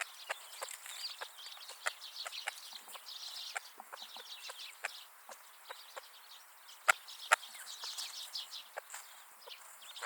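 A flock of wild birds feeding: many sharp taps, like beaks pecking at seed, with busy high twittering and chirping.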